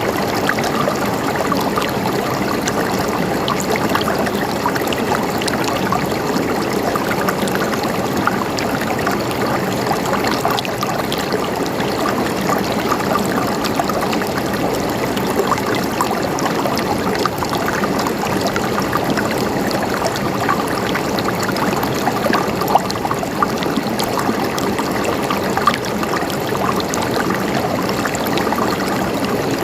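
River water flowing steadily over rocks, an even rushing with small splashes and gurgles throughout.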